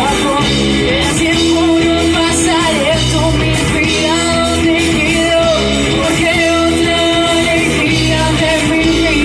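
Rock song with a singer's voice over a full band, loud and steady throughout.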